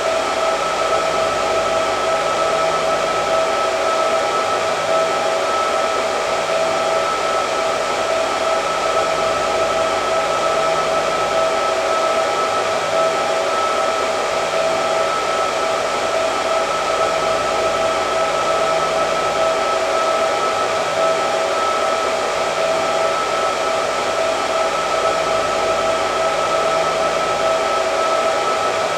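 Hair dryer running continuously: an even rush of blown air with a steady whine, unchanging throughout.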